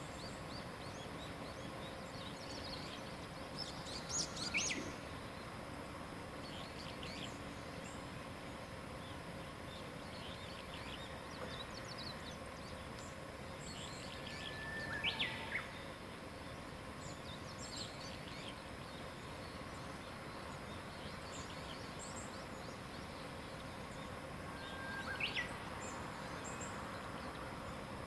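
Wild songbirds calling and chirping over a steady background hiss. A loud, sharp call sweeping down in pitch stands out three times, about ten seconds apart.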